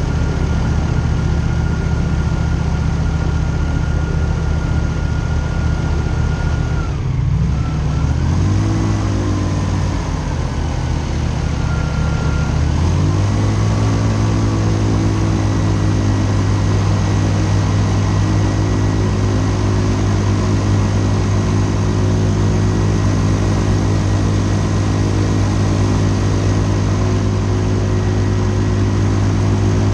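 Airboat engine and propeller running loud and steady. About seven seconds in the throttle comes off and the pitch falls and wavers, then it rises again and settles into a steady run about thirteen seconds in.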